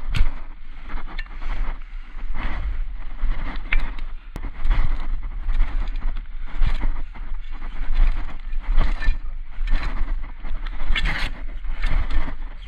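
Wind buffeting the microphone in irregular gusts, over a constant low rumble, with water noise beneath it.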